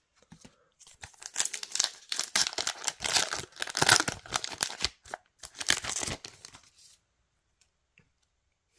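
A trading-card booster pack being torn open and its wrapper crinkled in the hands: a dense run of tearing and rustling that stops about seven seconds in.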